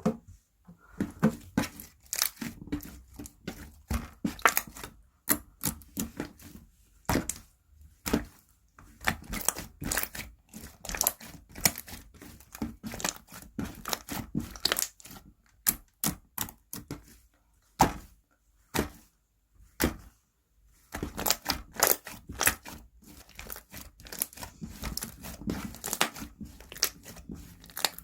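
Slime being squeezed, stretched and folded by hand, giving a run of irregular sticky pops and crackles, with a brief lull a little past the middle.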